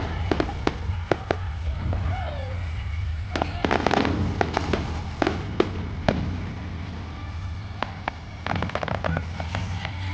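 Aerial fireworks display: shells bursting in quick clusters of sharp bangs and pops. The clusters come about a second in, around four to six seconds, and again near the end, over a steady low rumble.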